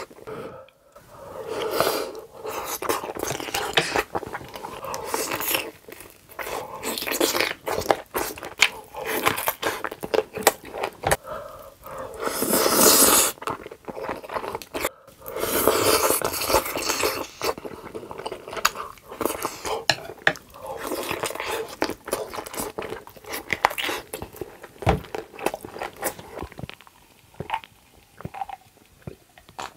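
Close-miked eating sounds: wet chewing, smacking and biting as spicy black bean noodles and a cheese-dipped kielbasa sausage are eaten, with one long, loud noisy stretch a little before the middle. The sounds thin out to sparse mouth clicks near the end, as a drink is taken from a bottle.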